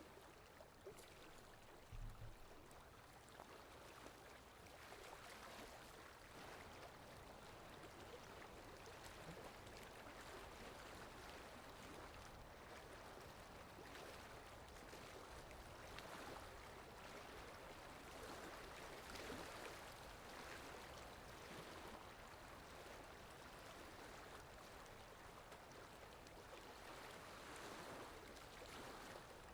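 Faint, steady flowing-stream water sound effect, an even rushing and gurgling, with a brief low thump about two seconds in.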